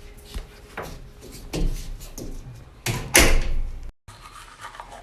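A door knocking and rattling in a series of sharp bangs, the loudest about three seconds in, breaking off abruptly near four seconds.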